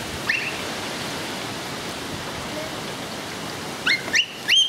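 Heavy rain falling in a steady hiss. A few short, high, rising chirps come through just after the start, and louder ones come again near the end.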